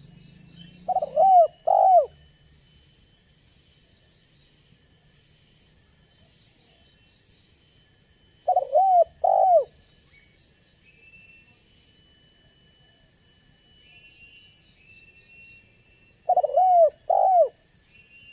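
Spotted dove (tekukur) cooing: three groups of three short coos, one group about a second in, one near the middle and one near the end, with faint high thin tones of insects or other birds between them.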